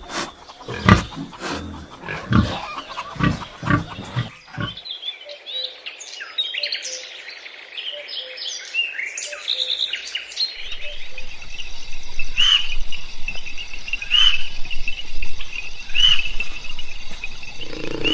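Animal noises: a quick run of short grunts or snorts for the first few seconds, then birds chirping, with one high call repeating about every two seconds in the second half.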